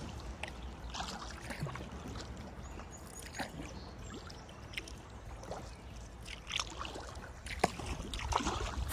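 Kayak paddle strokes in river water: irregular splashes and drips as the blade dips and lifts, over a low steady rumble.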